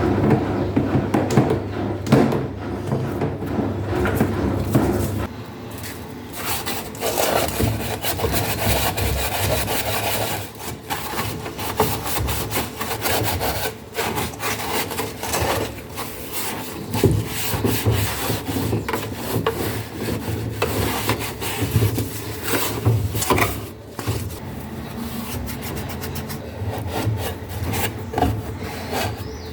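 Irregular rubbing and scraping by hand, with a steady low hum underneath for the first five seconds.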